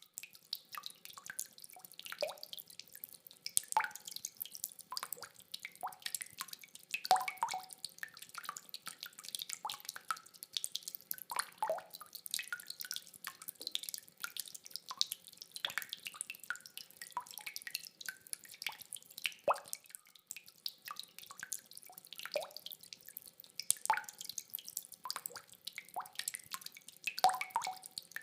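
Rainwater dripping in separate, irregular drops, several a second, many landing with a short pitched plop.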